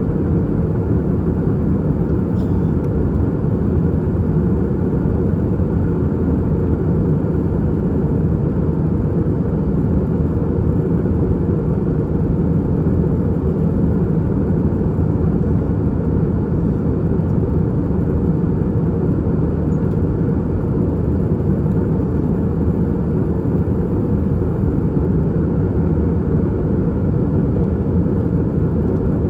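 Steady low cabin drone of an Airbus A320-232 in flight, heard from a window seat: the IAE V2500 turbofan engines and rushing airflow, with no change in pitch or level.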